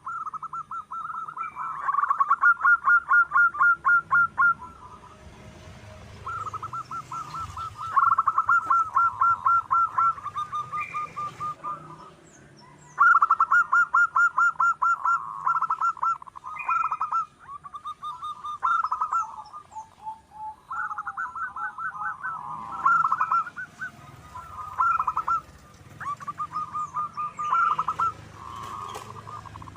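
Zebra doves (perkutut) cooing: rapid staccato runs of soft notes, one bout after another with short gaps, some bouts overlapping. Faint higher chirps sound above them.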